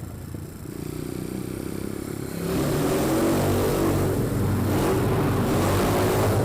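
Pit bike's small four-stroke single engine pulling under throttle, getting much louder about two and a half seconds in as the rider opens it up.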